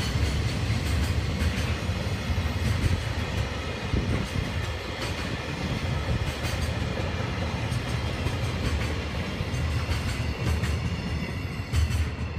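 A train running past on the rails: a steady rumble with occasional sharp clicks of wheels over rail joints.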